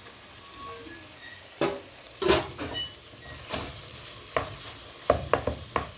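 Food sizzling in a frying pan while a utensil stirs it, knocking and scraping against the pan several times, with a quick run of knocks near the end.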